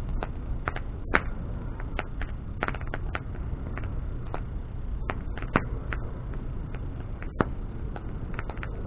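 Wood bonfire burning: irregular sharp crackles and pops over a steady low rush of flame, with a few louder pops standing out.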